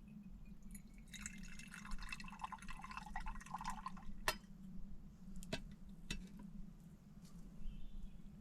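Liquid briefly poured or splashing for about three seconds, followed by three sharp knocks spread over the next two seconds.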